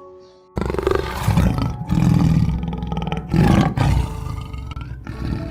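A large animal's deep, rough roaring call. It starts abruptly about half a second in and goes on in several louder stretches until near the end.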